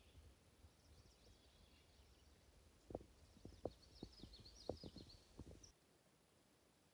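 Faint, quiet wilderness ambience with a few short high bird chirps, and a run of soft dull knocks a few seconds in. The sound drops away abruptly near the end.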